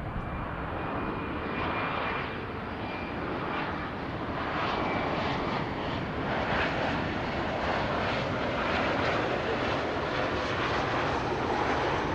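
Jet aircraft engines running with a steady roar that grows slowly louder.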